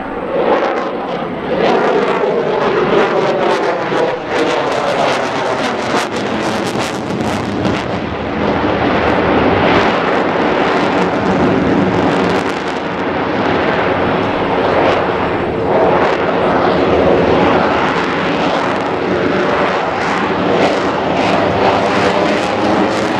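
F-22 Raptor fighter jet's twin turbofan engines, loud and continuous during its flight demonstration. The noise has a rough crackle and a whooshing tone that sweeps up and down as the jet moves across the sky.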